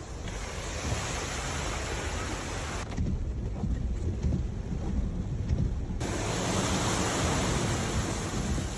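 A steady rushing noise with no speech. About three seconds in it turns suddenly deeper and duller, and about six seconds in it becomes bright again.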